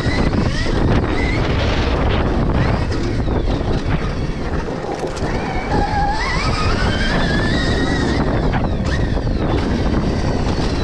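Heavy wind noise on the microphone of a riding motocross bike, with the thin electric whine of a Stark Varg electric motocross bike's motor. About six seconds in, the whine rises steadily in pitch as the bike accelerates, then fades.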